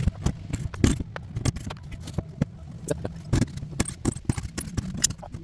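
Irregular knocks, taps and clicks of hands-on roofing work on the metal roof, over a steady low hum.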